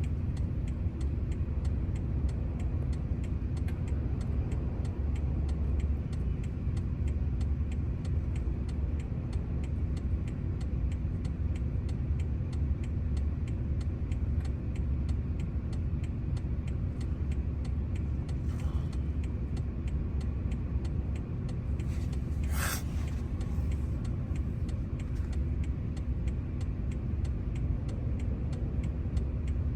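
Steady low mechanical rumble with a constant hum, and one sharp click about two-thirds of the way through.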